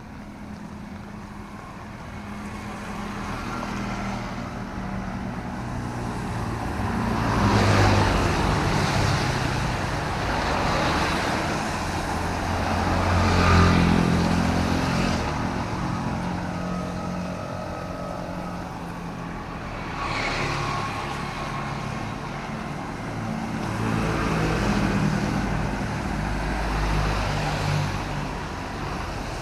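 Road traffic on wet city roads: several vehicles pass one after another over a steady background of engines, the loudest passes about eight seconds in and again near fourteen seconds.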